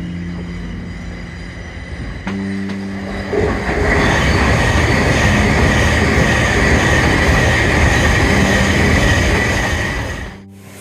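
Avanti West Coast passenger train passing, its rush of wheel and rail noise building about three and a half seconds in, with a steady high-pitched squeal over it. The sound drops away suddenly near the end. Background music plays under it and is heard alone in the first few seconds.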